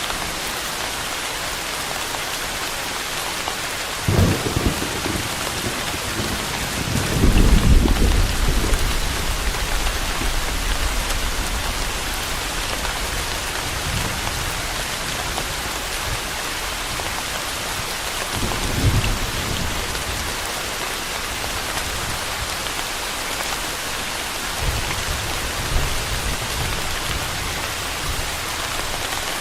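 Steady rain with rolls of thunder: a sudden clap about four seconds in, a long, loud rumble a few seconds later, then two fainter rumbles further on.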